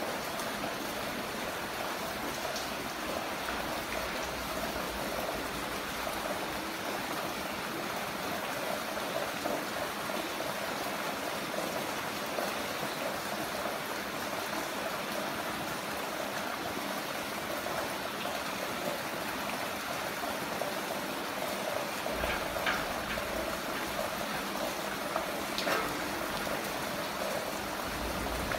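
Heavy rain falling steadily, a continuous even hiss of water, with a few brief sharper taps late on.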